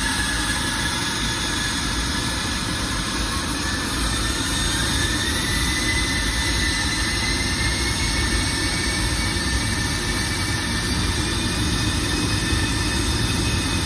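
Embraer 175's twin GE CF34 turbofan engines running up toward full throttle: steady loud engine noise with a whine that rises in pitch from about three seconds in to about seven, then holds.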